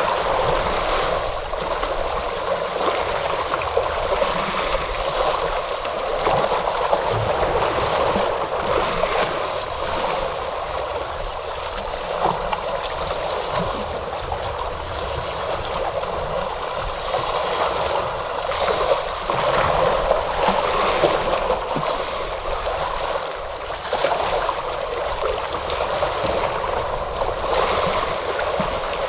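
Ocean waves washing in steadily, a continuous rush of water that swells gently every few seconds.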